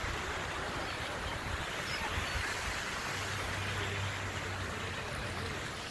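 Park water fountain splashing: a steady rush of falling water.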